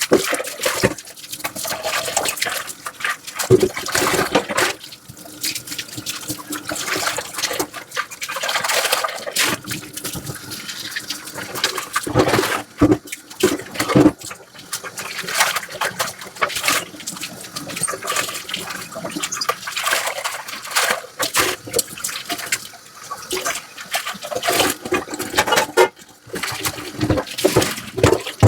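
Dishes being washed by hand in a sink: water running and splashing, with irregular short scrubbing and clattering strokes throughout.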